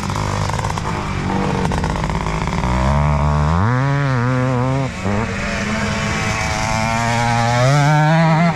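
Motocross bike engines running. One engine revs up about three and a half seconds in, holds, and revs up again near the end.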